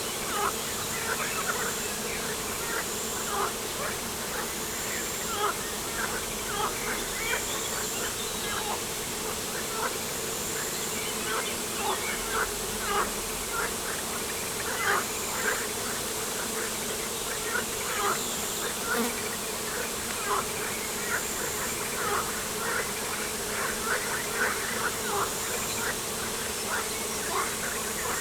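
Waterside nature ambience: a steady insect-like buzz, with many quick, irregular high chirps or plinks scattered over it.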